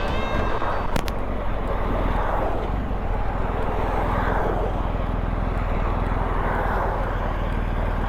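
Riding noise from a BMW R1250GS Adventure: wind rushing over a helmet-mounted camera, swelling and easing every couple of seconds, over the steady low drone of the bike's boxer-twin engine. A single short click about a second in.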